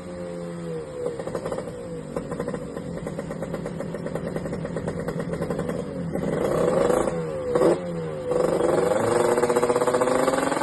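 Kawasaki Ninja RR 150's single-cylinder two-stroke engine, ported and fitted with an HBY titanium racing exhaust, being revved: the revs drop at first, hold with a rapid rattling exhaust note, then swing up and down in quick throttle blips before climbing again near the end.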